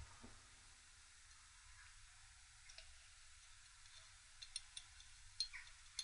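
Near silence, then a few faint, light metallic clicks in the second half as pushrods and rocker gear are handled and seated.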